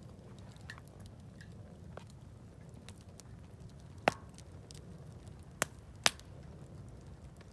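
Wood campfire crackling, with faint scattered ticks and three sharp pops from the burning wood, the first about four seconds in and two more a second and a half later, over a low steady rumble.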